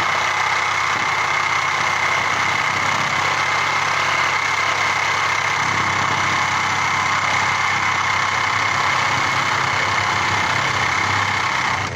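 Power saw running steadily and cutting into a boat hull, a steady high whine over a hissing cut with a low fluttering rumble underneath; it stops abruptly near the end.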